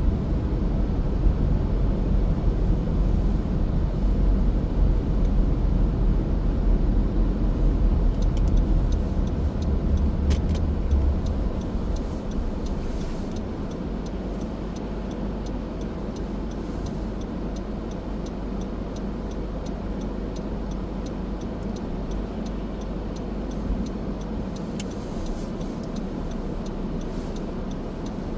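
Car driving, heard from inside: steady road and engine rumble that becomes noticeably quieter about twelve seconds in.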